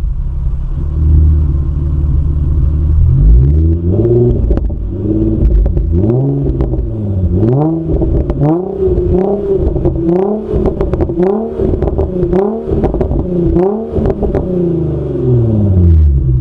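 Nissan 350Z's 3.5-litre V6 through a straight pipe in place of the catalytic converter (Motordyne ART pipes and XYZ Y-pipe), idling at first. From about four seconds in it is revved in a run of quick blips, roughly one a second, then drops back to idle near the end.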